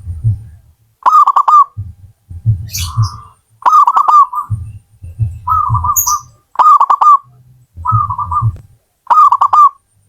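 Zebra dove (perkutut) cooing: about six short, quick-rolling coo phrases, roughly one a second, with a low rumble between the phrases.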